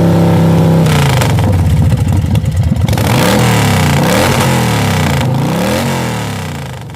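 Royal Enfield Bullet 500's single-cylinder engine running under way: its revs hold steady, drop about a second in, then rise and fall several times, and the sound fades out near the end.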